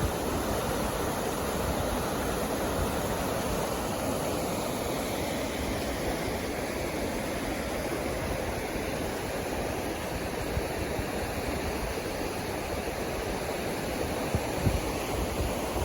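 Waterfall rushing with a steady roar of falling water, and a few low wind thumps on the microphone near the end.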